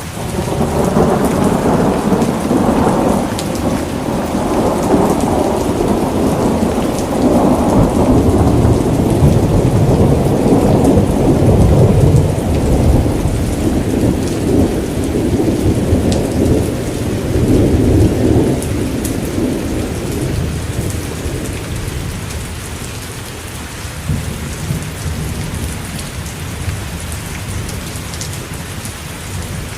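Steady rain falling, with a long rolling rumble of thunder that builds over the first few seconds, peaks in the middle and dies away after about twenty seconds.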